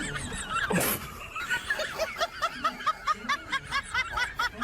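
Laughter: a fast run of short, repeated 'ha'-like sounds, about five a second, starting about a second in.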